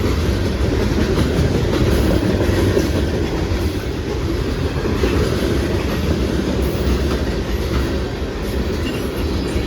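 Freight cars of a CSX local train rolling past on the rails, a steady loud rumble of wheels on track.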